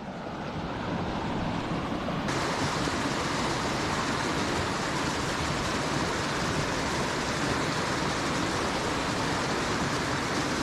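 Steady rush of flowing creek water. It grows brighter and hissier about two seconds in.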